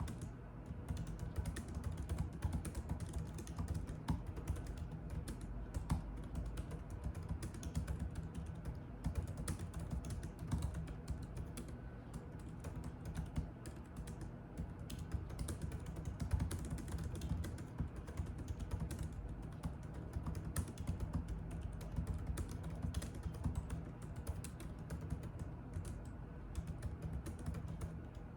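Continuous typing on a computer keyboard: a dense, uneven patter of key clicks over a low steady hum.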